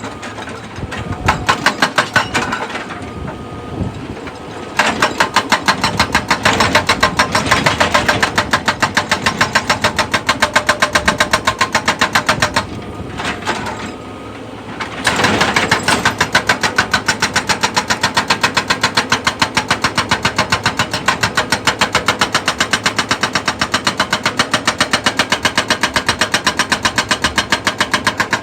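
Heavy machinery working with a fast, even pounding rhythm of several strokes a second, which eases off briefly twice and then picks up again.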